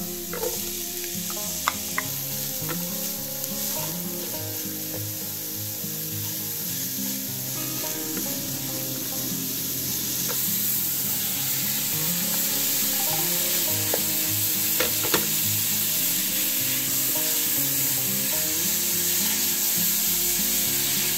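Chopped onion and ground beef sizzling in hot oil in an aluminium pan while a spatula stirs and scrapes through it, with a few sharp clicks of the utensil against the pan. The sizzle grows louder about halfway through.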